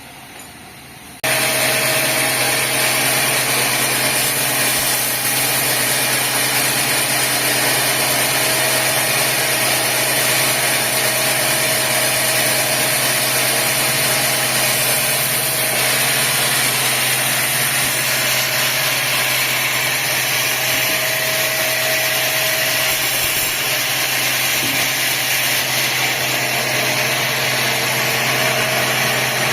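Sawmill machinery running steadily and loudly: a constant hum and rush of noise that starts abruptly just over a second in.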